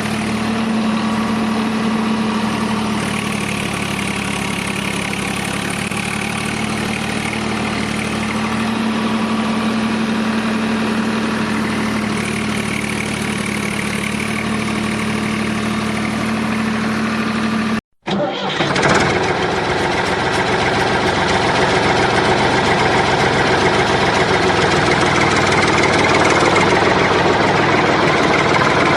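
DIY tractor's motor running steadily with an even hum. About 18 s in there is a brief break, after which it runs on with a rougher, noisier sound that grows a little louder.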